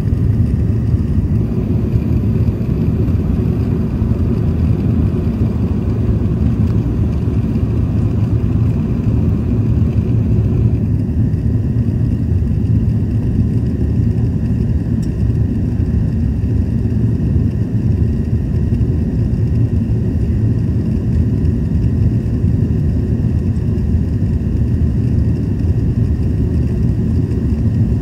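Steady low rumble of a jet airliner's engines and airflow heard inside the passenger cabin during the climb after take-off. The higher part of the sound shifts slightly about a third of the way through.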